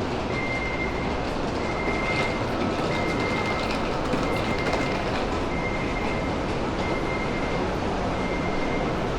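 Steady rumble of a train running, with a high tone sounding in pulses about once every second and a quarter.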